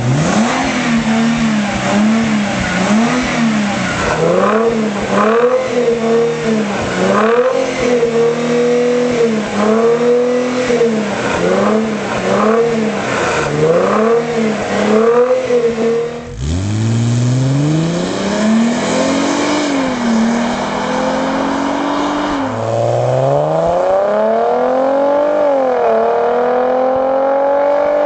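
Mercedes ML350's V6 breathing through a KKS valve-controlled aftermarket exhaust. It is blipped a dozen or so times in quick succession, about one rev a second. After a sudden break it pulls hard, the pitch climbing steadily and dropping back twice at gear changes.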